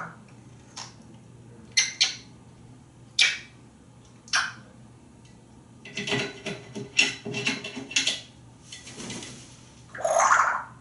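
African grey parrot making non-speech noises: scattered sharp clicks and short squeaks, a quick run of clicks and chatter about six to eight seconds in, and a louder harsh squawk near the end.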